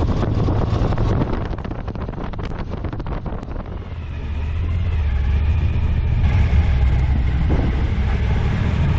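Motorcycle on the move: wind buffets the microphone, and the engine's low drone grows louder from about four seconds in.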